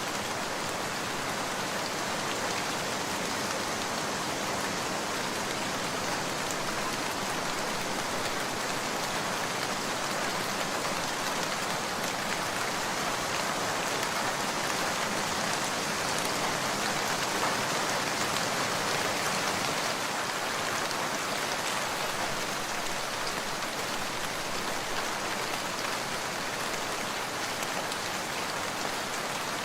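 Steady rain falling, a dense even hiss of drops that stays at much the same level throughout.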